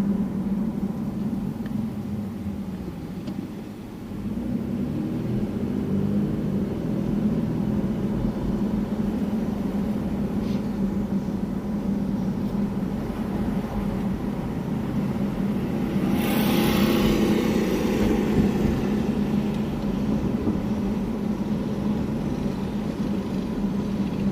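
Car driving: steady engine and road hum inside the cabin, with a louder rush of noise for a few seconds past the middle.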